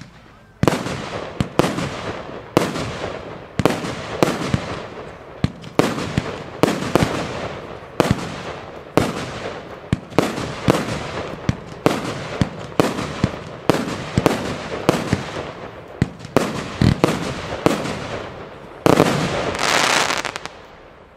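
Röder Nishickeria firework battery firing shot after shot: a sharp bang roughly every half second to a second, each trailing off in crackle. About nineteen seconds in, a dense burst of crackling lasts a second or two as the finale, then dies away.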